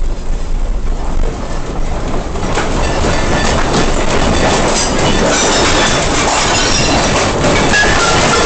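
Building and its contents rattling and rumbling in earthquake shaking, a dense clatter of many small knocks that swells about two and a half seconds in and keeps going.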